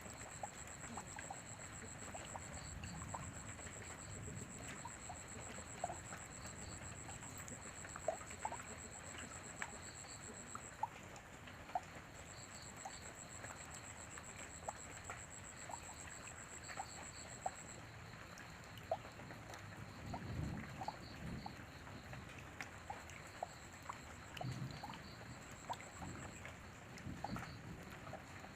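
Steady rain with many single drops and drips ticking, and soft low rumbles of distant thunder about twenty seconds in and again a few seconds later. A thin high whine runs underneath and breaks off around the middle.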